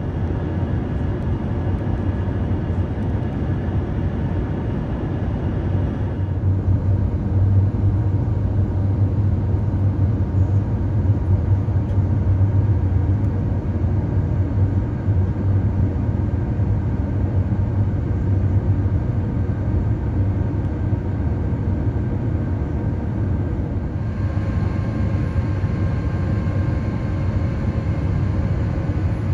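Steady in-flight cabin noise of an Airbus A350-900: a low rumble of airflow and engines with a few faint steady tones. The higher part of the noise drops abruptly about six seconds in and returns near the end.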